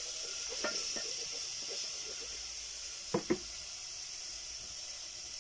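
Tomatoes frying in a pan over a wood fire, a steady high sizzle, with a brief double sound about three seconds in.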